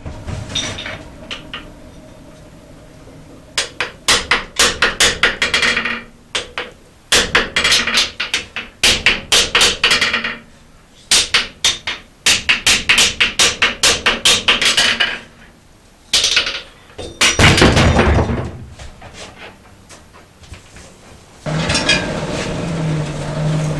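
Hand hammer striking a hot felling-axe head on an anvil, in three long runs of rapid ringing blows at about four a second, as the eye is driven over to line up with the blade. A loud rushing burst comes about two-thirds of the way in, and a steady hum starts near the end.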